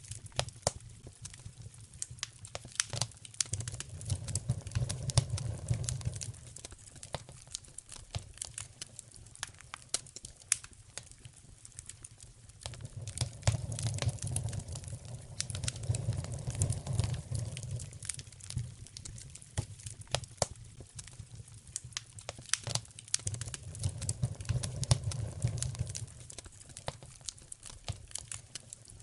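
Wood fire in a fireplace crackling and popping, with many sharp snaps. A low rumble swells and fades three times: around 4–6 seconds in, again around 13–18 seconds, and near 23–26 seconds.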